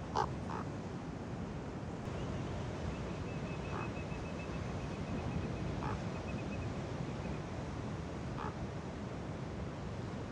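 Common raven giving short calls: a quick pair at the start, then single calls every two to three seconds, over a steady low rush of background noise.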